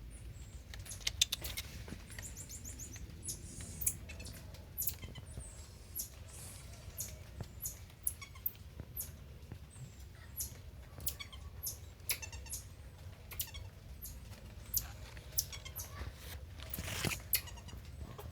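Short, high-pitched squeaks or chirps from a small animal, coming irregularly about once a second over a steady low hum.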